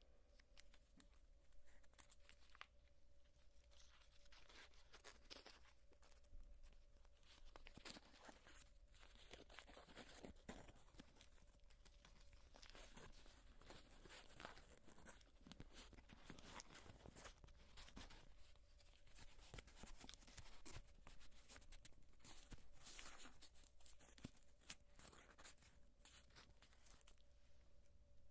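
Gum being chewed close to a sensitive microphone: a quiet, dense run of irregular small clicks and smacks.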